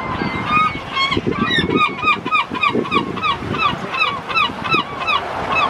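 A gull giving a long run of repeated, hooked calls, about three a second, starting about half a second in and stopping shortly before the end, over a steady wash of surf and wind noise.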